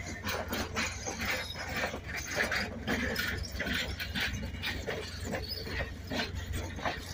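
Passenger train cars rolling past at close range: the steel wheels clatter and click irregularly on the rails over a steady low rumble.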